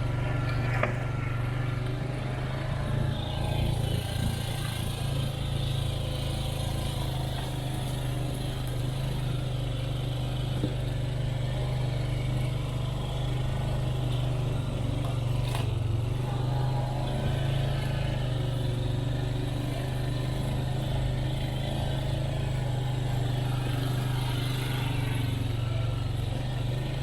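Off-road four-wheeler engine running at a steady, even speed while driving, a constant low hum.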